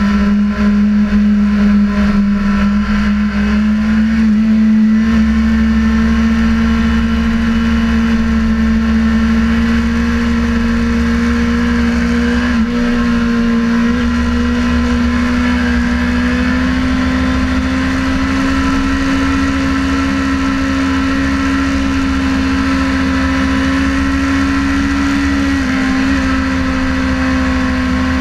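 Sportbike engine heard from on board at a steady high pitch that climbs slowly, with two brief dips in pitch, over wind rush on the microphone.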